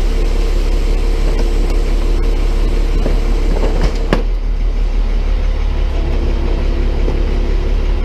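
Tow truck's engine idling steadily while its can-crusher attachment works trash in a plastic can, with a sharp crack or knock about four seconds in.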